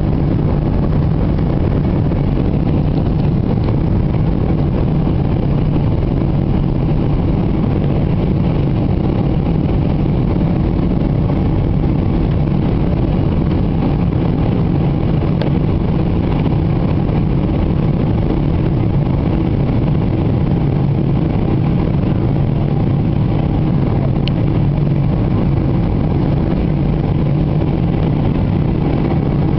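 Steady, loud jet engine drone and air noise inside the cabin of a Boeing 777-300 airliner during take-off and climb, deep and unchanging throughout.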